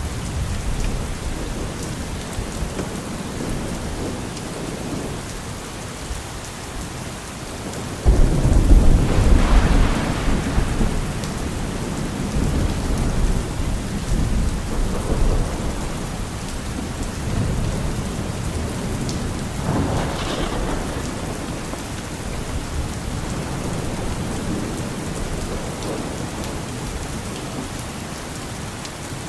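Steady rain falling, with a sudden clap of thunder about a third of the way in that rumbles for a few seconds, and a second, weaker roll of thunder a little past the middle.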